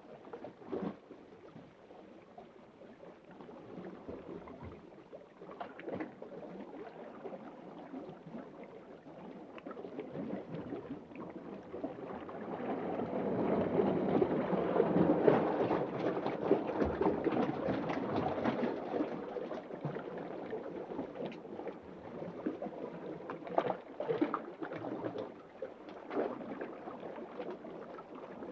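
Underwater ambience: a muffled, continuous wash of moving water with scattered small clicks. It swells louder about halfway through, then settles back.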